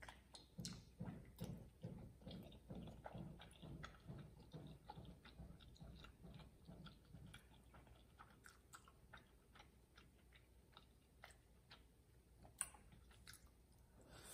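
Faint close-up mouth sounds of chewing soft tteokbokki rice cakes and glass noodles, a steady rhythm of about three chews a second that fades out about halfway through, followed by a few sharp wet clicks near the end.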